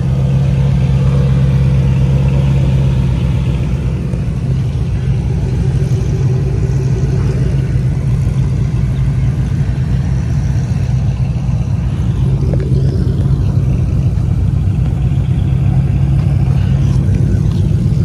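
Ford Mustang GT's 5.0 V8 engine running steadily with a deep, even hum.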